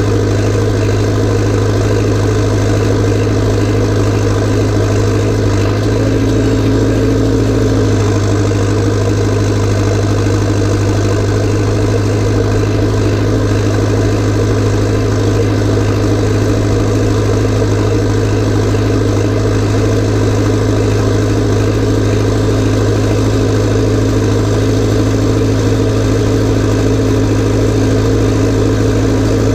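Massey Ferguson tractor diesel engine running steadily at an even speed, a loud, constant low hum.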